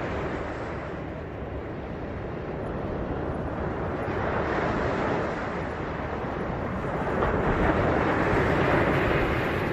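Ocean surf washing onto a beach: a continuous rush of water noise that swells about four seconds in and again more strongly near the end, with wind rumbling on the microphone underneath.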